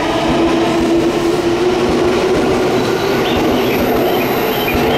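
JR East E233-series electric commuter train pulling out along the platform. Its motors give a steady hum, and the wheels knock over the rail joints.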